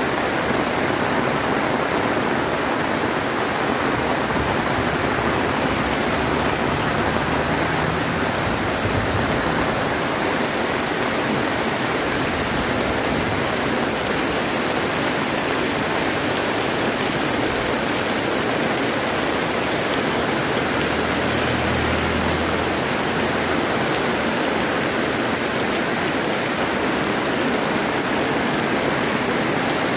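Very heavy rain falling steadily, a dense even downpour.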